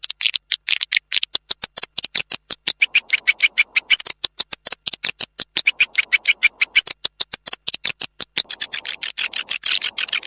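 Recorded swiftlet calls, the kind of call track played in swiftlet houses to draw the birds in: a fast train of short, dry clicking chirps, about ten a second, coming closer together near the end.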